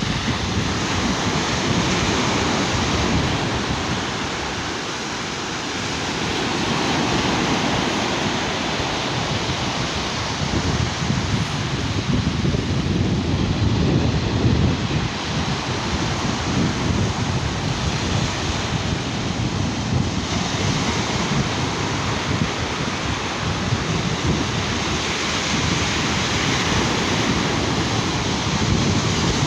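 Sea waves washing onto a beach, a steady surf noise, with wind buffeting the microphone in gusts.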